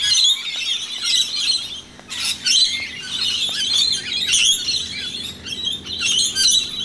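Dense chorus of many birds chirping and squawking, one call overlapping the next without a break.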